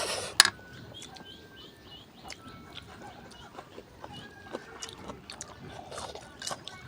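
Small birds chirping in quick, short repeated notes, with thin whistled calls in between; a single sharp click about half a second in.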